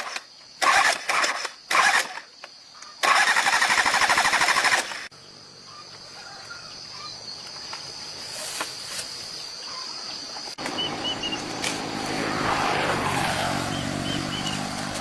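A small engine running in short loud bursts for the first few seconds, then stopping, leaving outdoor ambience with a few faint bird chirps.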